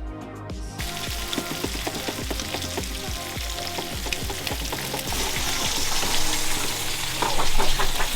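Food frying in a hot pan, an even sizzle that starts about a second in and grows louder toward the end, over background music with a steady beat.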